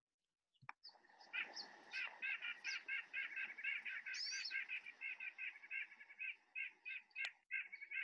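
A backyard bird's call: a long run of quick, evenly repeated notes, about four or five a second, starting about a second in and going on for several seconds. Another bird gives a brief higher chirp about four seconds in.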